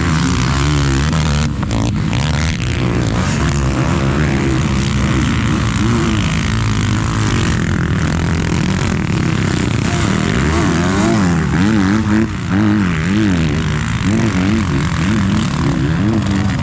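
A motor vehicle's engine running under load on a rough trail, its pitch wavering up and down continuously over a steady rumble and rush of noise.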